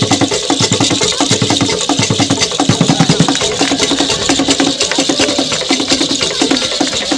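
Fast percussion music: a rapid run of strokes with short, repeated low pitched notes in quick groups.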